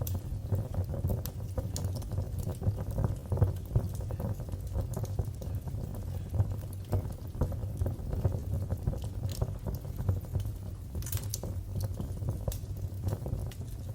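Wood fire burning in a fireplace: a steady low rumble of flames with frequent small crackles and pops, and a couple of sharper pops near the end.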